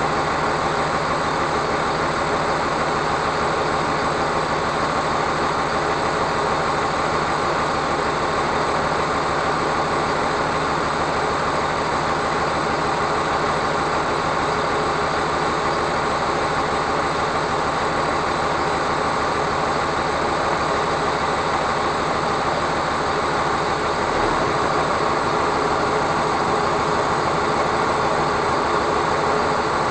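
Steady, unchanging drone of a truck under way: engine and road noise.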